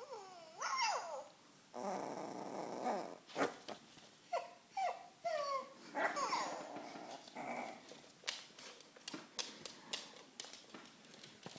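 Young border collie/blue heeler mix puppy growling and giving short, falling, high-pitched yips and whimpers, a sign of fear, with scattered light clicks and taps later on.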